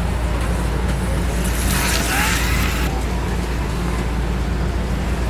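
An HO-scale Life-Like slot car passes the camera about a second and a half in, a brief hissing whir of about a second and a half, over a steady low hum.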